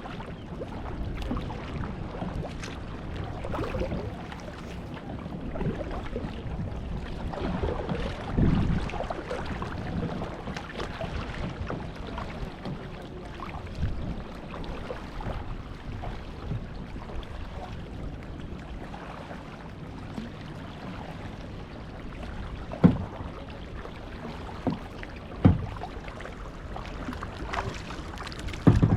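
Kayak paddles dipping and splashing through the water in a steady wash of water and wind noise, with a few sharp knocks in the last several seconds.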